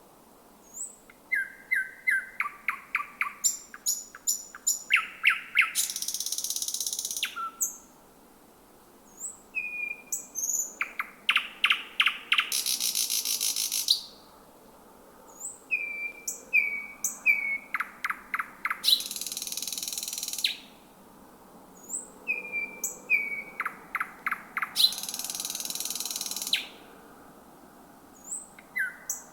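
Thrush nightingale singing: four loud song phrases with short pauses between them, each made of whistled notes and fast clicking strokes and ending in a long buzzy rattle. A fifth phrase starts near the end.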